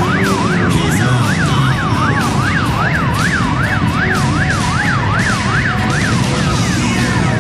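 A siren on its fast yelp setting, rising and falling about two and a half times a second, over a steady low rumble. It stops shortly before the end.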